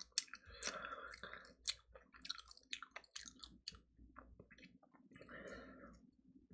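A mouthful of crispy fried chicken being chewed close up, with many sharp crunchy clicks from the crust over the first few seconds, then softer chewing.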